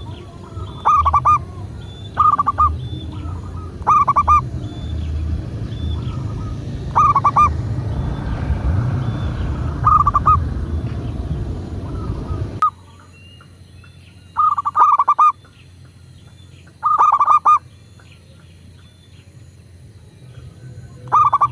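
Zebra dove (perkutut) cooing: short rolling coo phrases repeated every second or two, with a faint higher chirp repeating behind them. A low rumbling background noise cuts off suddenly about halfway through, and the coos go on over a quieter background.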